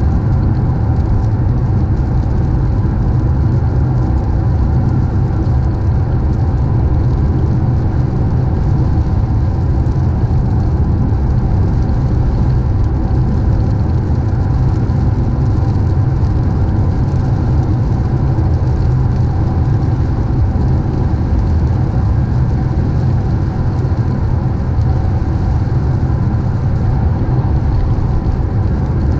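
A car driving steadily: a constant low rumble of engine and tyres with no change in pace.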